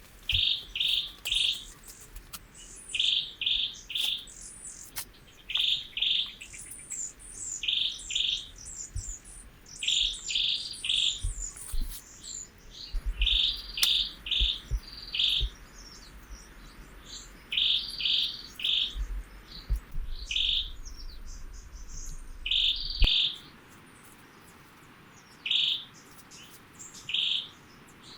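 Birds calling: short, clear notes repeated in groups of two or three, with higher twittering among them. A low rumble sits underneath for a while, and a single sharp click comes about four-fifths of the way through.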